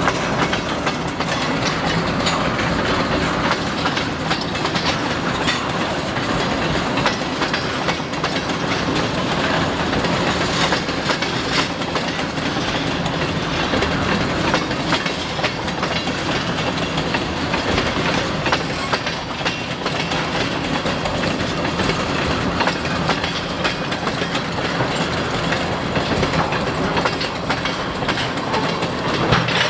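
CN freight train's tank cars rolling past close by at speed: a steady rumble with the wheels clicking rapidly over the rail joints.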